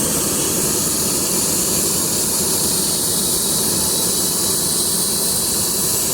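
Turbocharger-based turbo jet engine running steadily on bottled gas: a loud, even rushing hiss with a thin, steady high whine from the spinning turbo.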